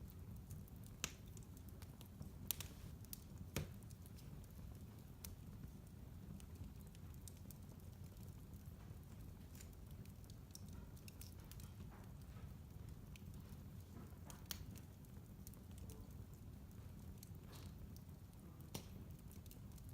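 Wood fire burning quietly in a fireplace: a low steady rumble with scattered sharp crackles and pops, a cluster in the first few seconds and a few more near the end.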